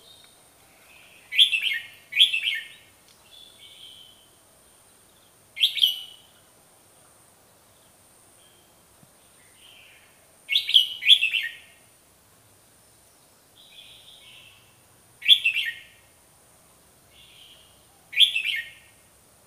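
Bulbul calling: short, loud chirpy phrases every few seconds, some in quick pairs, with softer notes between them.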